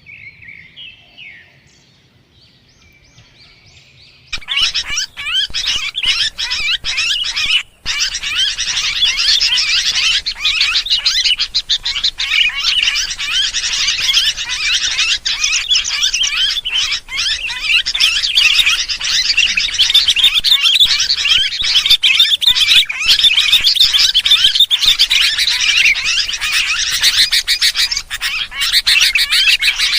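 A flock of sooty-headed bulbuls (kutilang) chattering in excited, noisy calls, played as a bird-lure recording. A few faint chirps give way about four seconds in to a loud, dense, continuous chorus of rapid overlapping high chirps.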